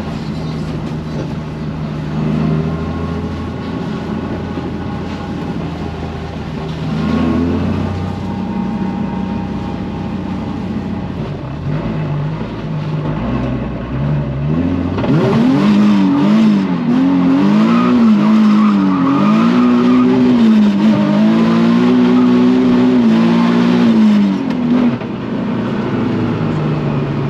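Drift car's engine pulling steadily, then from about fifteen seconds in revving hard up and down again and again for some ten seconds as the car is slid, the throttle worked on and off.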